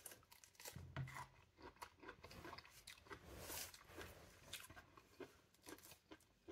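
Faint chewing of juicy pomelo flesh, with scattered small wet clicks, and the papery membrane being pulled off a segment by hand, a brief rasp about three and a half seconds in.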